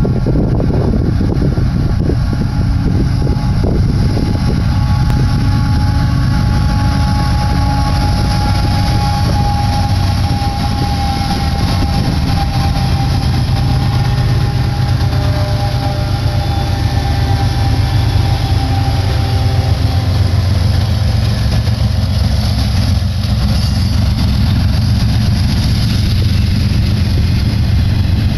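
BNSF westbound intermodal freight train passing close by. Its diesel locomotives go by, then the container and trailer cars, with a loud steady rumble throughout. A thin steady whine rides over the rumble through the middle.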